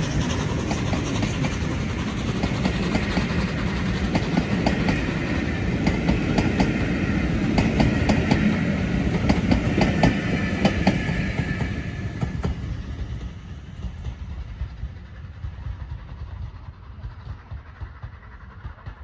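Passenger coaches of a steam-hauled train rolling past close by, their wheels clicking over the rail joints. After about twelve seconds the train fades away into the distance.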